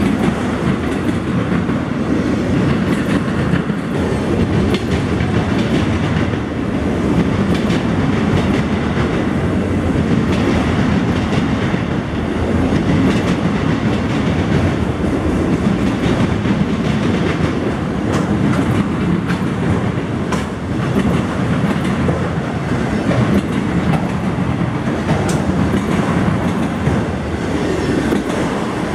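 Freight train of autorack cars rolling past at steady speed: a continuous rumble of steel wheels on rail, with clacking as the wheels pass over rail joints.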